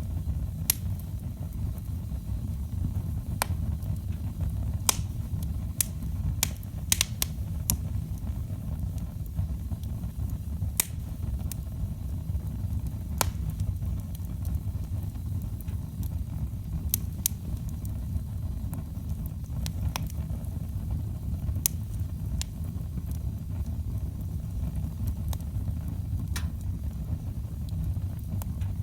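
Wood fire burning in a fireplace: a steady low rumble under sharp, irregular pops and crackles from the burning logs, several coming in quick succession about six to eight seconds in.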